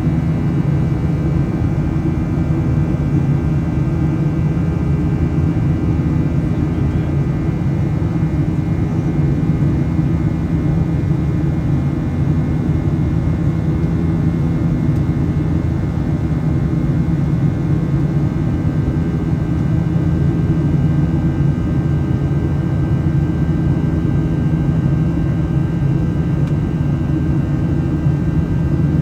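Steady jet cabin noise of a Boeing 737-700 in flight after takeoff: the low drone of its CFM56-7B turbofan engines and airflow, with a few faint steady whines above it, heard from inside the cabin.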